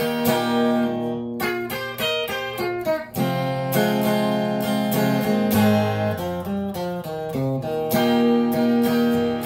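Acoustic guitar playing an instrumental break in a country song: strummed chords, with a run of quick picked notes between about one and three seconds in.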